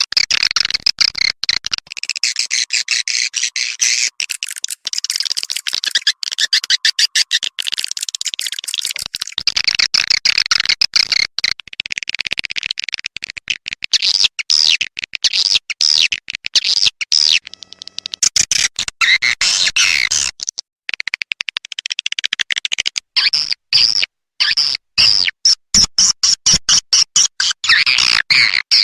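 Recorded swiftlet calls: dense, rapid, high-pitched chirping twitters and clicks, coming in runs broken by sudden short silences. This is a swiftlet-house calling sound, played to lure edible-nest swiftlets to roost and nest.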